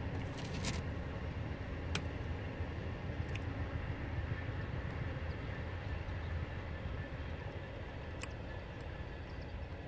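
Distant steady low rumble of a long engineering train of bogie wagons passing, hauled top and tail by Class 66 diesel locomotives, with the rear locomotive going by and slowly fading away. A few sharp clicks sound through it.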